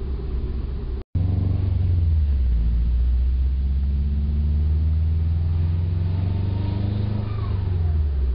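2006 Subaru WRX's turbocharged engine pulling up steadily through the revs for several seconds. Near the end a short falling whistle comes from the stock bypass valve as the engine comes off, the odd whistle likened to a turkey call.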